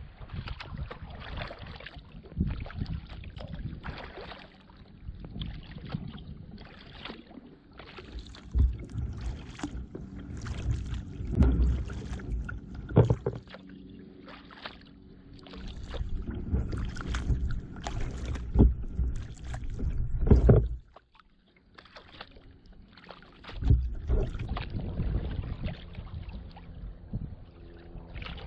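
Kayak paddling: the paddle blades dip and splash in a steady rhythm of strokes, about one a second, over a low rumble, with a short pause about three-quarters of the way through.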